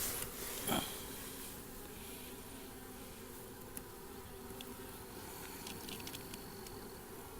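Honey bees from an open hive buzzing in a steady hum, with a short knock under a second in and a few faint clicks later on.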